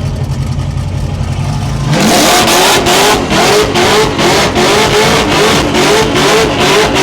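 Supercharged 6-litre LS V8 of an HG Holden burnout wagon running low and steady, then about two seconds in revving up sharply and holding at high revs, loud, with a regular pulsing of two to three beats a second.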